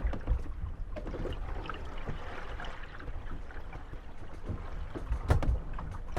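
Moored Venetian gondolas rocking on the waves, their hulls creaking and knocking against each other over a low wash of lapping water. One louder knock comes about five seconds in.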